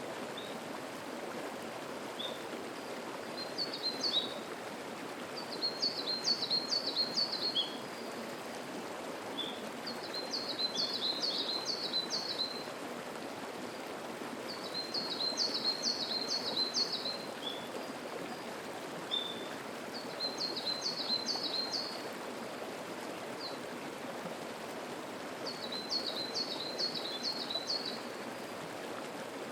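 Mountain stream flowing steadily as a constant rushing babble. Over it a songbird repeats a short, high phrase of rapid notes six times, about every five seconds, with single short call notes in between.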